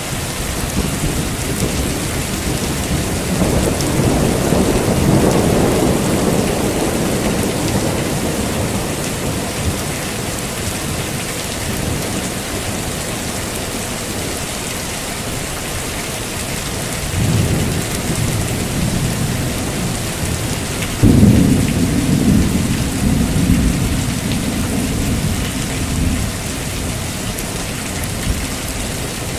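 Heavy rain falling steadily, with rolling thunder: a long rumble builds a few seconds in, then two more claps follow past the middle, the second the loudest, rumbling on for several seconds.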